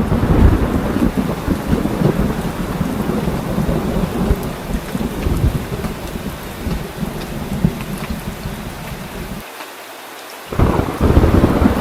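Heavy rain falling steadily under continuous rolling thunder. The deep rumble cuts out for about a second near the end, then comes back as loud as before.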